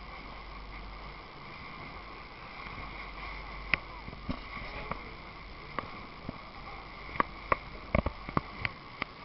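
Water slapping against a boat's hull with scattered sharp knocks and clicks, more frequent in the second half, over a steady hum.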